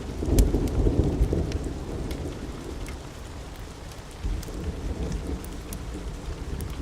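Steady rain with a low thunder rumble that swells right at the start and fades over a second or two, and a softer rumble about four seconds in. Scattered sharp crackles and pops from a wood fire sit on top of the rain.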